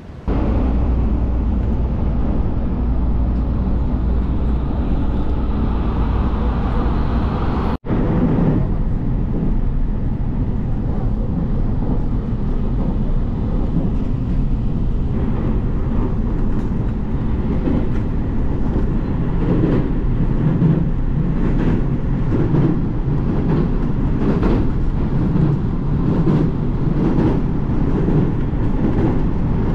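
Local electric train of the Tokaido Line running at speed, heard from inside the carriage: a steady rumble, with faint repeated clicks in the second half. The sound drops out for an instant about eight seconds in.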